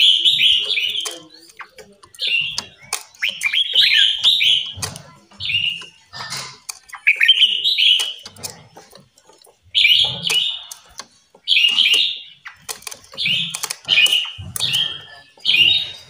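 Caged songbirds in an aviary singing and calling: short, high chirping phrases repeated every second or two, with scattered clicks between them.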